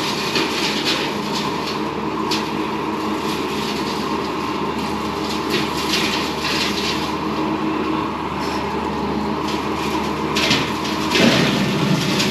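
Bobcat T595 skid steer's diesel engine running steadily under load, with irregular bursts of crackling as the side-mounted hydraulic brush mower cuts through brush and branches. The sound grows louder near the end.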